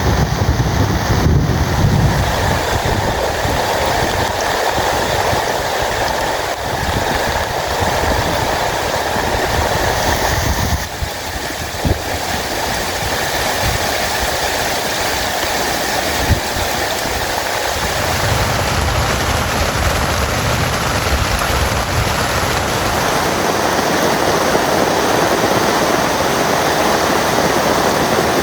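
Heavy rain falling in a steady, dense hiss, with a low rumble of wind that swells and fades.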